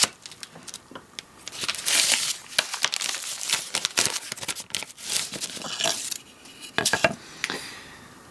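Irregular rasping and rustling with sharp clicks: hand work on a small grinder sled at a workbench.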